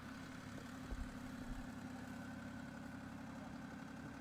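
Tractor engine running steadily at low revs, with a low thud about a second in.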